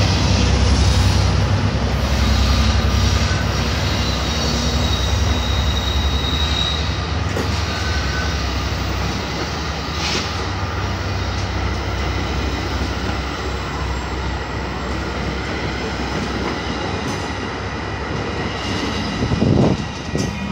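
Commuter train running on the rails, a steady low rumble with a thin high wheel squeal about two to four seconds in.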